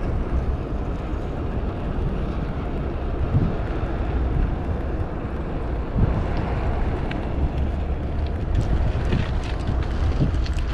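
Wind rumbling steadily on the microphone of a moving bicycle ride, with a few light ticks near the end.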